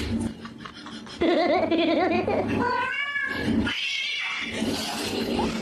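A cat yowling: a long wavering call starting about a second in, followed by shorter meows.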